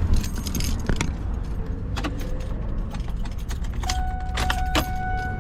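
Light clicking and rattling of a vehicle light bulb and its socket being handled and fitted, over a steady low rumble. About four seconds in, a steady high tone starts and holds.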